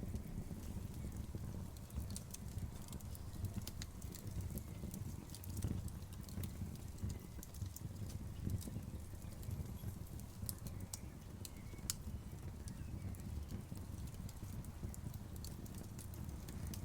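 Outdoor wood bonfire crackling: a steady low rumble of flame with frequent sharp, irregular pops and snaps of burning wood.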